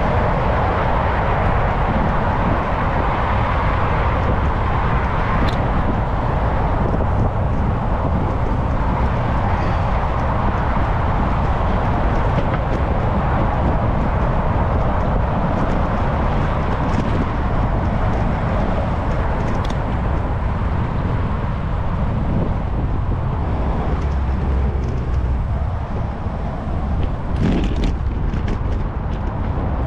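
Wind rushing over a GoPro's microphone on a moving bicycle, a steady loud rumble with road noise. A few sharp clicks or rattles come near the end.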